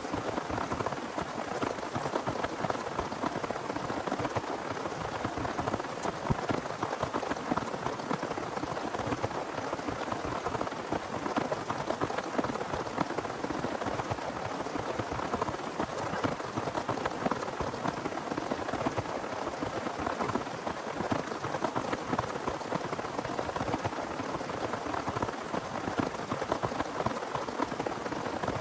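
Heavy rain falling steadily: a dense, even patter of countless drops striking a surface.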